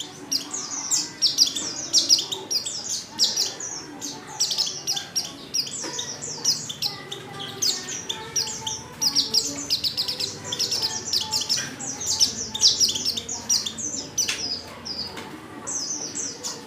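White-eye (pleci) twittering: a continuous stream of rapid, high chirps and trills, presented as a female in breeding condition calling to males.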